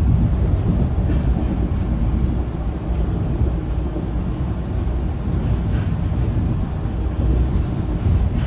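Metro-North passenger train running on the rails: a steady low rumble with faint clicks now and then.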